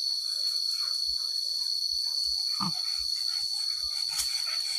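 Insect chorus in forest, a continuous high-pitched steady shrill. A brief faint rising vocal sound comes about two and a half seconds in, and soft low thuds recur at a steady pace.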